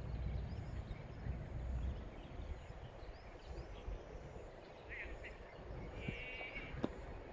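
Open-air ambience with a low rumble, a few short high calls in the second half, and one sharp crack about seven seconds in.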